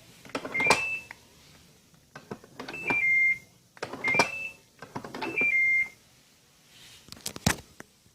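Cuckoo electric rice cooker's control panel being worked: four button presses, each answered by a short falling three-note beep, then a single sharp click near the end.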